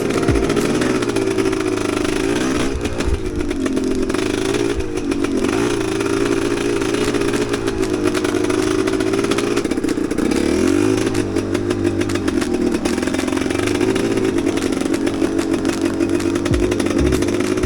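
Enduro motorcycle engine running loud under load, its pitch repeatedly rising and falling as the throttle is opened and closed while riding.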